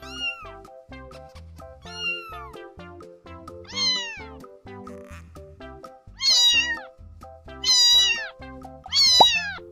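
Domestic cat meowing about six times, each meow rising then falling in pitch, the three in the second half loudest. Background music plays underneath.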